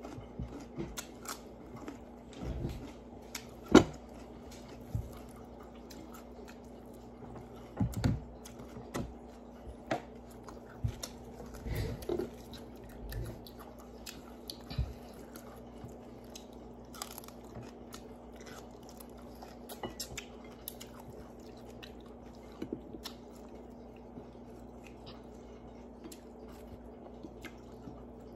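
Close mouth sounds of someone chewing and crunching raw cucumber, with sharp bites and clicks that come often in the first half and thin out later. A steady low hum runs underneath.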